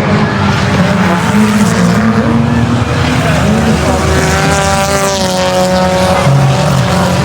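Stock car engines running at racing speed around the track, loud and continuous. About four seconds in, one car's engine note holds high as it passes.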